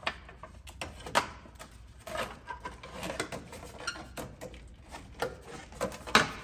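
Thin sheet-metal heat shield being worked loose and maneuvered by hand in the engine bay, giving irregular clinks, taps and scrapes, with the sharpest knock near the end.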